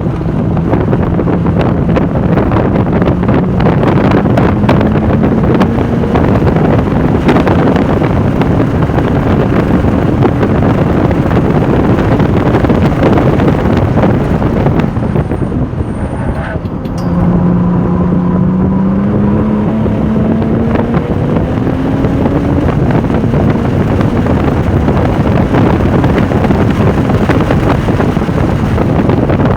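Porsche 996 Turbo's twin-turbo flat-six pulling hard on track, its pitch climbing slowly, with heavy wind noise on the microphone. About halfway through it eases off briefly, then comes back at a lower pitch and climbs again.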